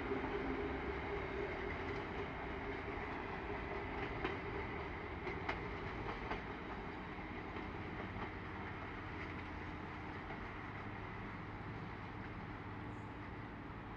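Train running along the rails and gradually fading as it draws away, with a few faint clicks of the wheels over the track.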